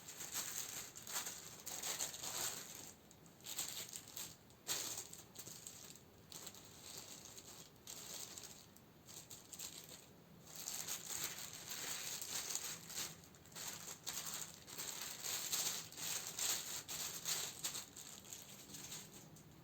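Plastic and paper packaging crinkling and rattling as candles are handled and sorted, a busy stream of small crackles and clicks that eases off for a few seconds near the middle.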